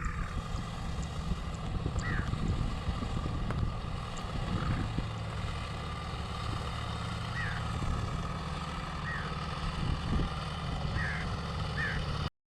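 John Deere diesel tractor engine running steadily under load while pulling a rotavator through a flooded paddy field. Short, faint high chirps sound now and then over the engine.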